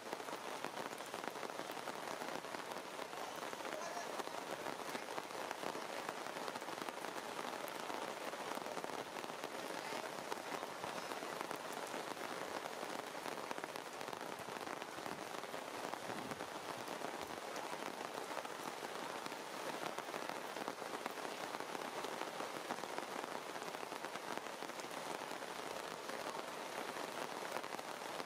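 Steady rain falling on forest foliage: an even, unbroken hiss of dense drops.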